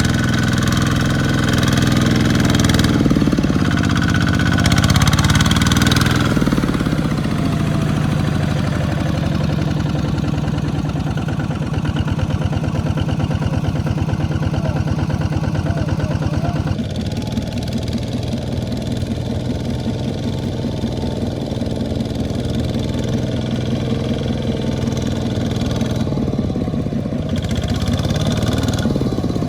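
Small farm tractor engines running, the pitch shifting as the throttle changes in the first several seconds; the engine sound changes abruptly about two-thirds of the way through.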